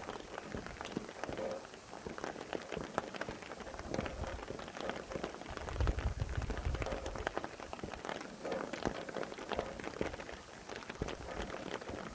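Steady rain with many close, distinct drops ticking on a surface, and a low rumble of wind swelling about six seconds in.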